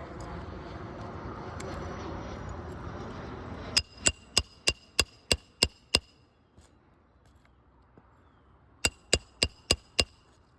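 Roofing hammer striking the steel roof snake to drive nails back in under a shingle: two quick runs of sharp ringing metal-on-metal blows, eight and then five, about three a second. Before them a steady rushing noise cuts off suddenly.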